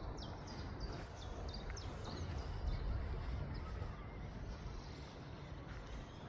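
Birds chirping, a quick run of short, high, falling chirps in the first second or so and a few scattered later, over a steady low outdoor rumble.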